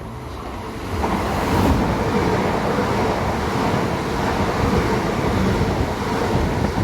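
A pair of coupled Class 375 Electrostar electric multiple units passing at speed: a steady rushing rumble with dense wheel clatter that builds over about the first second and then holds.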